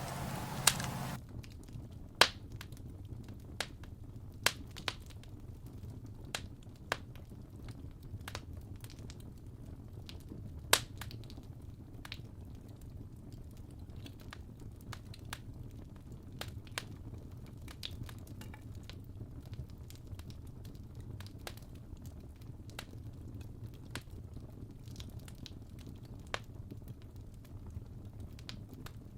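Campfire crackling: irregular sharp pops and snaps, a few loud ones in the first dozen seconds, over a low steady rumble of burning wood.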